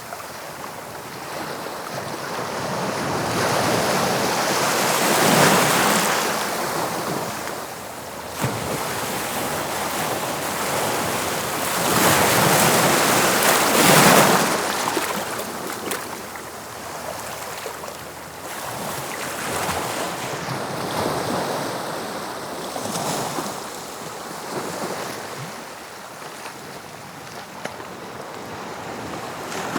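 Sea waves breaking and washing on the shore, swelling and falling in slow surges, with two bigger breakers about 5 seconds in and about 12 to 14 seconds in, then smaller ones. Some wind noise underneath.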